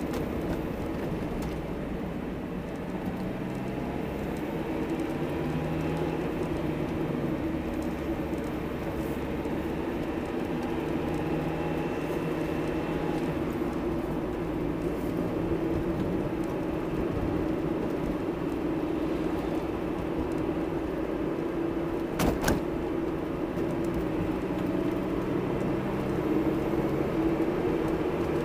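1996 Mazda Miata's 1.8-litre four-cylinder engine running, with road noise, heard from inside the cabin while driving, the engine note rising and falling with speed. A couple of sharp clicks come about three quarters of the way through.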